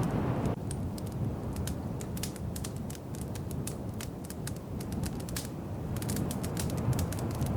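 Wood fire crackling in a fireplace: irregular small pops and snaps over a low rumble of the flames. A soft hiss cuts off about half a second in.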